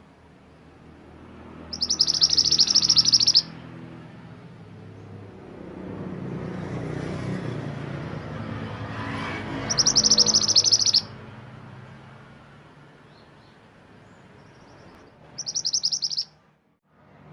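Mantenan gunung songbird giving three bursts of rapid, high chattering song, each one to two seconds long, over a faint low background noise.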